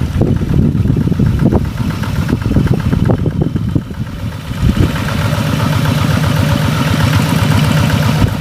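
Rice-paddy tractor engine running under uneven load, with irregular low thumps for the first few seconds, then settling to a steadier drone about halfway through.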